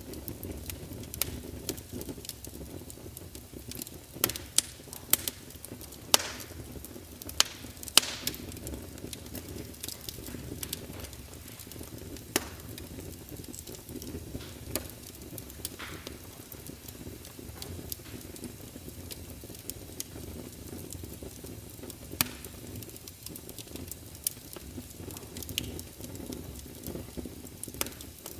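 Wood fire crackling: a steady low rush of flames with scattered sharp pops and snaps, coming thickest between about four and eight seconds in.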